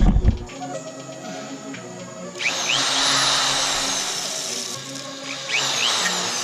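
Power drill run in two bursts, each starting with a quickly rising whine that slowly winds down, boring a 3/8-inch hole through a steel boat trailer frame.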